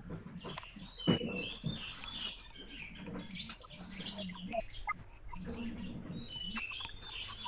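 Birds chirping in the background, a string of short chirps and quick pitch glides repeating over a faint low murmur.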